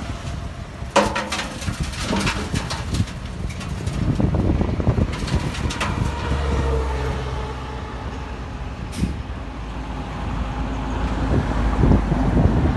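Heavy diesel earthmoving machinery running with a low rumble, with a run of sharp clanks and knocks about a second in, more around five seconds, and a brief hiss near nine seconds.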